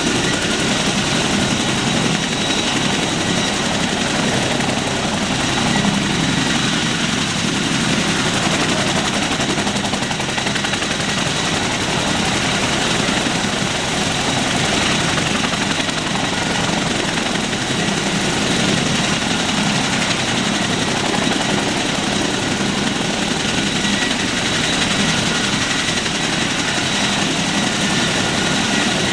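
Helicopter running steadily: a dense, unbroken engine and rotor noise with a faint steady whine.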